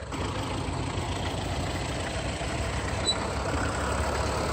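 Tractor engine running steadily, growing a little louder toward the end.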